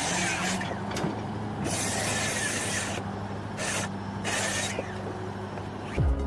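An engine running steadily, with several separate bursts of loud hissing over it. A louder low rumble with falling sweeps comes in near the end.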